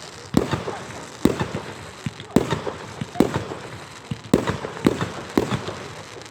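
Fireworks going off: about eight sharp bangs at uneven intervals, roughly one every half second to second, each followed by a brief crackle.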